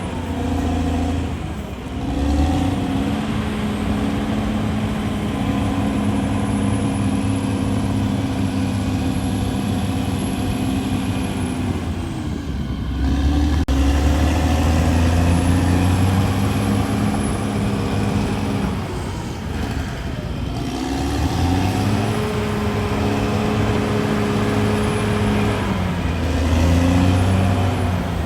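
CAT D6R bulldozer's diesel engine running hard. Its pitch sags and climbs back about four times as the load on the machine changes.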